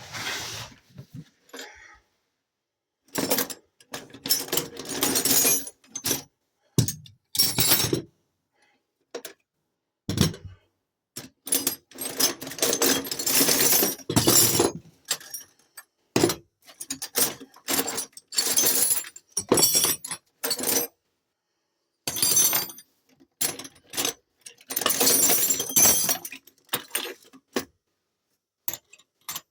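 Loose metal hand tools clattering and clinking as they are spilled out and rummaged through, in several bursts of a few seconds each with short pauses between.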